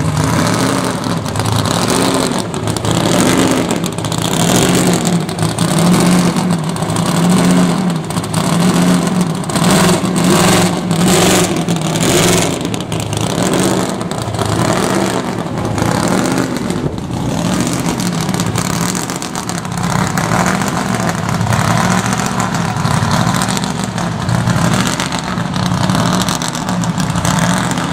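Supercharged Plymouth Duster engine running, its note rising and falling about once a second, as the car pulls away and drives off.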